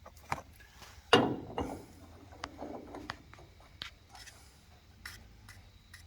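Scattered clicks and knocks of threaded pipe fittings and tools being handled, with one louder knock and a short scrape about a second in.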